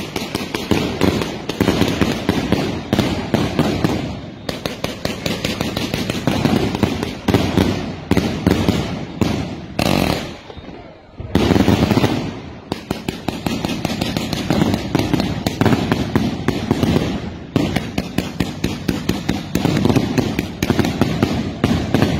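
Fireworks fired from the ground, a rapid, continuous string of bangs and crackling bursts, with a short lull about halfway through before the firing picks up again.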